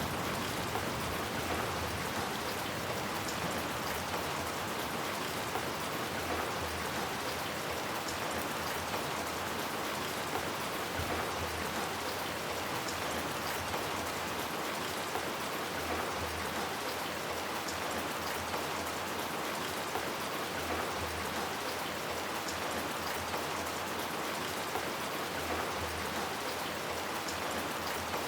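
Steady rain falling: an even hiss with fine patter of individual drops.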